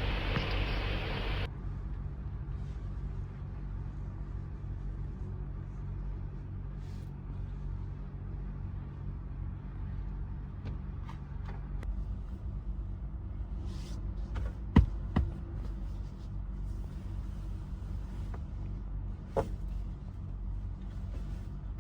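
Truck engine running, heard from inside the cab as a steady low rumble. A hiss cuts off about a second and a half in, and a few sharp clicks come later, the loudest about two-thirds of the way through.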